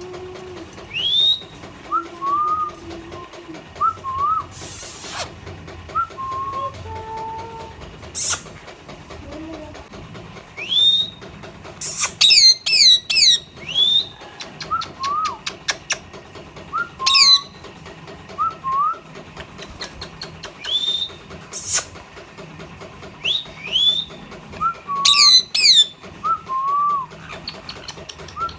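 Indian ringneck parrots calling: short rising whistled calls and lower chirps, one every second or two, with a fast chattering trill about twelve seconds in and again near twenty-five seconds.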